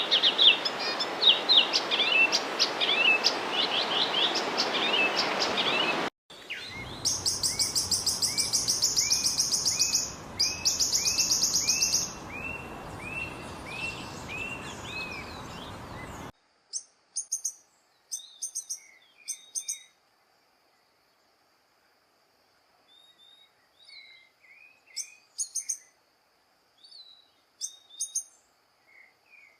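Songbirds singing, in three recordings joined with abrupt cuts: first a dense run of high chirps over a steady background noise, then a fast high trill with a series of repeated arching notes below it, and from about 16 seconds in, sparse short chirps and calls with quiet between them.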